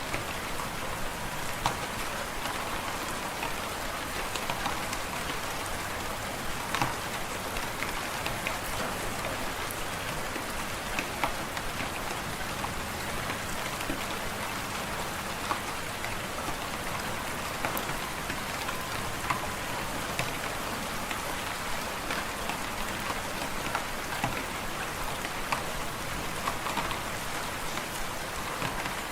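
Wood fire crackling in a fireplace: a steady hiss with scattered sharp pops and snaps.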